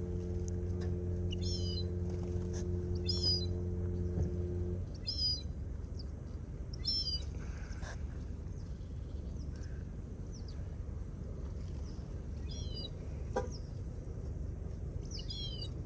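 A small songbird calling: a short, high, stepped chirp repeated about every two seconds. A steady low hum runs underneath and stops about five seconds in.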